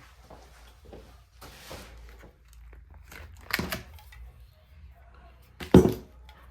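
Groceries being unpacked and handled: a rustle, then a knock, and a louder thump near the end as items are set down.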